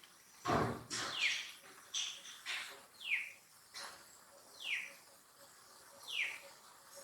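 A bird calling: a short, high call that slides down in pitch, repeated about every one and a half seconds. A brief loud noise about half a second in is the loudest sound.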